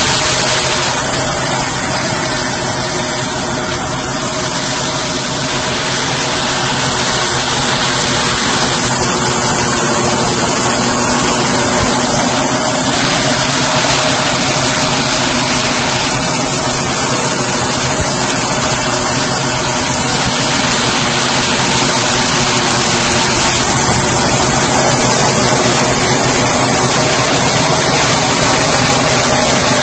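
Tractor diesel engine running steadily under a working rotavator.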